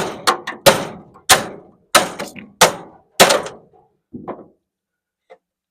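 Hammer striking the metal of an electric clothes dryer to bust a part loose: about seven sharp blows, roughly one every half second or so, each ringing briefly, then a lighter knock about four seconds in.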